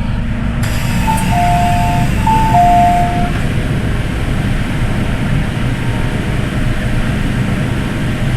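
MTR M-Train electric multiple unit running, with a steady low rumble and hiss. A two-note chime, a higher note then a lower one, sounds twice about a second in.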